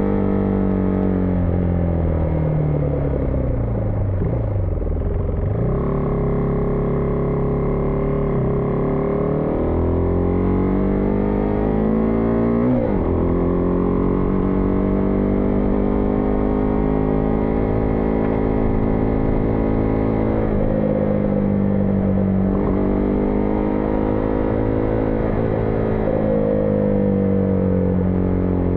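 Husqvarna Vitpilen 401's single-cylinder engine under way. It slows with falling pitch over the first few seconds, then pulls away, rising in pitch with several gear shifts.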